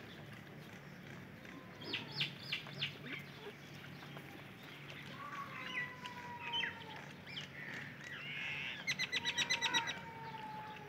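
Birds chirping and calling, with a few sharp chirps about two seconds in, long falling whistles, and a quick run of about ten notes near the end.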